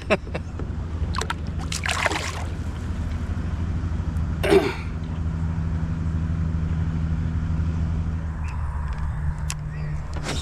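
A steady low drone runs throughout, with a few short splashes or knocks about one to two seconds in and a louder one about four and a half seconds in.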